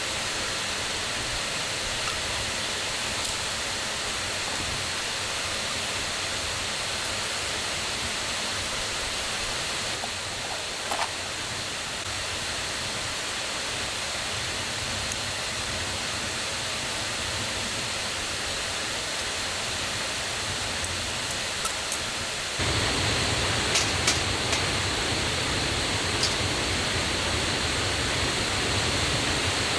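Rushing water of a forest stream and waterfall, swollen after rain: a loud, steady noise of water. About 23 s in it jumps abruptly louder and fuller, and a few faint clicks sound over it.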